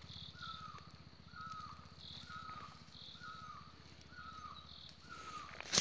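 A bird calling over and over, a short, slightly falling note about twice a second, with a fainter higher call now and then over a low steady hum. A sharp click at the very end.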